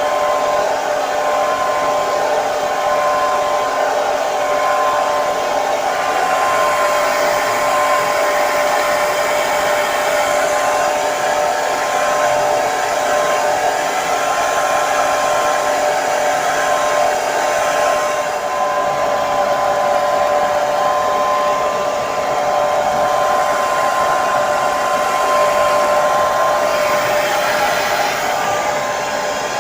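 Hair dryer running continuously at a steady setting: an even rushing blow with a constant motor whine.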